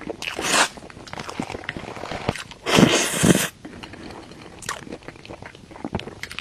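Close-miked eating sounds: bites and chewing with small clicks, and two longer crunchy bursts, the louder one about three seconds in.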